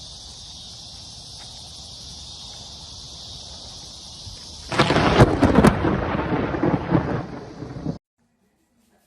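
A steady insect chorus, then about five seconds in a very close lightning strike: a sudden sharp crack of thunder and rumbling that fades over about three seconds before cutting off abruptly.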